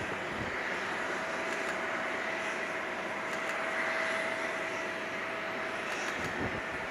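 Boeing 747-400F freighter's jet engines during its landing, a steady roar of engine noise with a high whine running through it.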